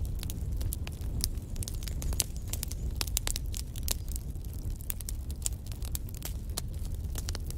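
Wood fire burning in a fireplace: dense, irregular crackles and pops from the logs over a low steady rumble of the flames.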